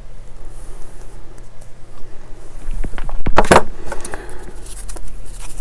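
Small hard plastic parts and tools being handled: a brief rattling clatter about three seconds in, with lighter scattered clicks around it.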